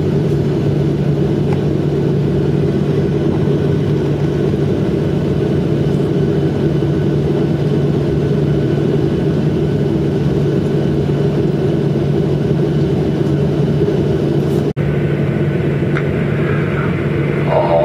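Jet airliner cabin noise while taxiing after landing: the engines at low power make a steady drone with a low hum. The sound cuts out for an instant near the end.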